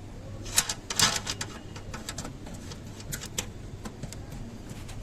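Scattered sharp clicks and knocks of tools and parts being handled during an air-conditioner installation, the loudest about half a second and a second in, over a low steady hum.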